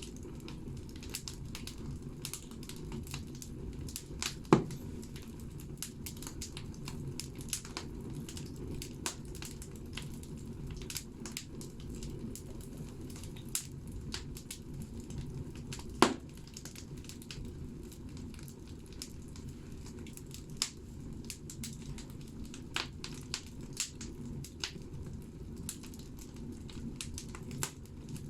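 Firewood burning in a wood stove's firebox, crackling with scattered snaps over a steady low rumble of the fire. Two loud pops stand out, one about four seconds in and another about sixteen seconds in.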